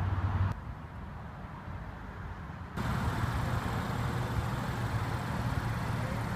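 Steady low hum of a car engine idling. It drops away abruptly about half a second in and comes back just before three seconds with more road-like noise around it.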